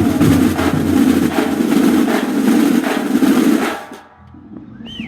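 Banda de guerra drum section, snare and bass drums, playing a dense, fast roll pattern that stops abruptly about four seconds in.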